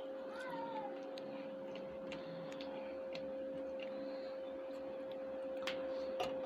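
Faint, scattered clicks and light taps of eating from a plate, over a steady electrical hum. A short squeak falls in pitch about half a second in.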